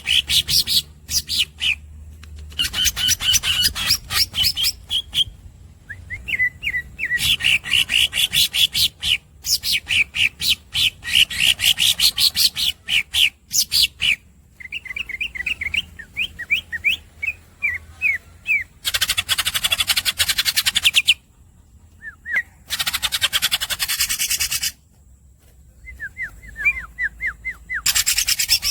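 Green leafbird (cucak ijo) singing: fast series of repeated squeaky notes and trills with short pauses, then two long, harsh, buzzy rolls in the second half.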